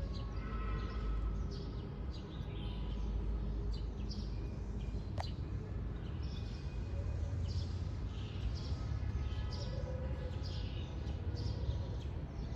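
Birds chirping in short scattered calls, with one sharp falling whistle about five seconds in, over a steady low rumble.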